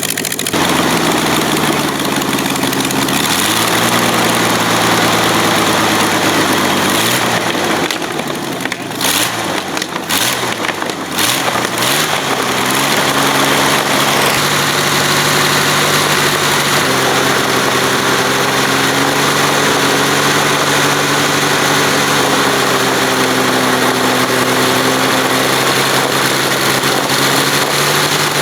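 Avia M 137 six-cylinder air-cooled aircraft engine running. Its pitch rises and falls with throttle changes through the first half, dipping briefly a few times around the middle, then it settles into a steady run.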